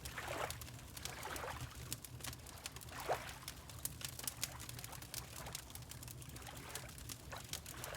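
Water lapping in soft swashes, three or so in the first few seconds, over the small sharp crackles of a wood fire in a fireplace and a steady low rumble.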